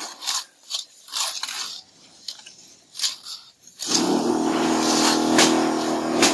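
Irregular scraping strokes, about two a second. About four seconds in, steady background music with a regular beat comes in and covers them.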